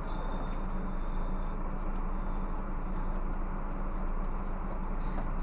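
Scania bus's diesel engine running with a steady drone and a low hum, along with a faint high whine during the first second or so.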